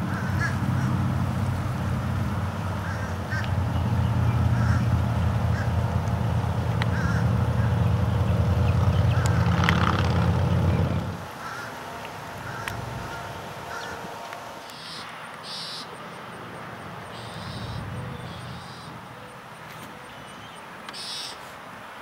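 Wild birds calling: short chirps and caws over a steady low hum, which cuts off about halfway through. Clusters of short, higher calls follow in the second half.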